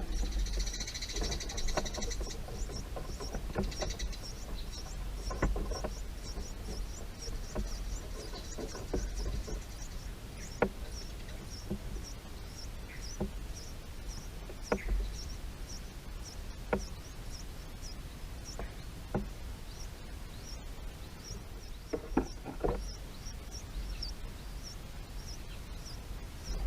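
Small birds chirping: a short high chirp repeats about twice a second throughout, with a brief cluster of louder high calls in the first two seconds. Scattered sharp clicks and a low rumble underneath.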